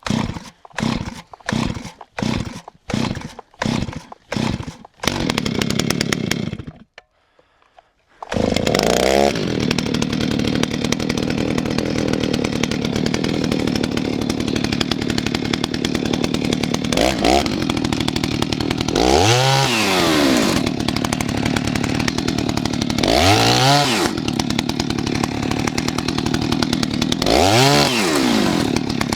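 Stihl 039 two-stroke chainsaw starting up after months unused: it runs in uneven surges about one and a half a second, cuts out briefly, then catches again and runs steadily, revved up and back down several times. The owner suspects a failing crankcase seal because the carburetor is hard to keep tuned.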